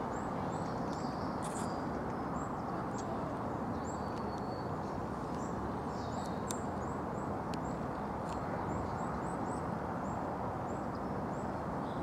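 Steady outdoor background noise with a small bird chirping over it, short high chirps about twice a second, and a few faint clicks.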